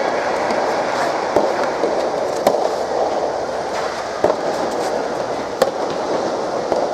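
Soft tennis balls struck by rackets: sharp, short pops every second or so over a steady background hubbub of the hall.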